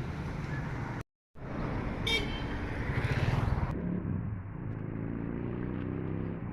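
Road traffic with a vehicle engine running and a short horn toot about two seconds in. The sound breaks off abruptly about a second in and changes character near four seconds.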